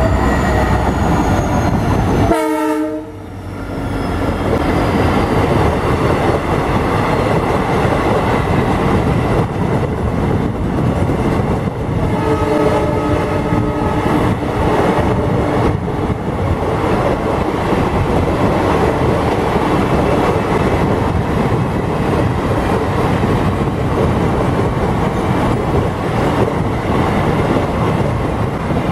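WDP4B diesel locomotive hauling an express passenger train through at speed: a steady rumble, with the coaches' wheels clattering over the rail joints. The horn sounds briefly about two seconds in and again for about three seconds near the middle.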